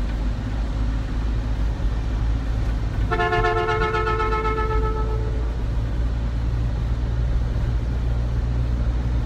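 A vehicle horn sounds once a few seconds in: a steady honk held for about two seconds. Under it runs the constant low rumble of a vehicle on the road.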